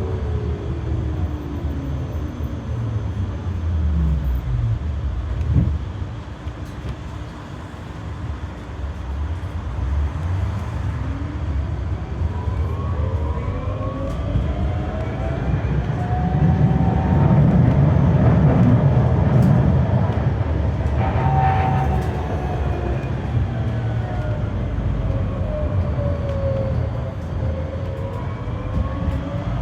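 Tram traction drive heard on board: its motor whine falls as the tram slows at the start, then rises as it speeds up again about a third of the way in, over a low rumble of wheels on rail that is loudest midway. Later the whine falls and rises once more.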